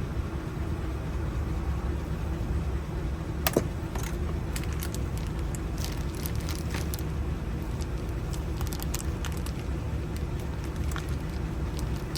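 Small metallic clicks and ticks from handling a car trunk lock cylinder and its parts, with one sharper click about three and a half seconds in, over a steady low rumble.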